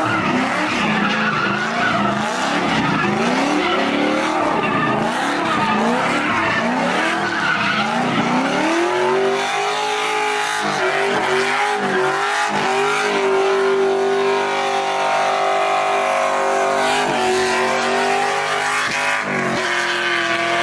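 Car engine revving hard during a burnout, with the tyres spinning and squealing. The revs rise and fall over and over, then about eight seconds in the engine holds a steady high pitch, dipping briefly a few times.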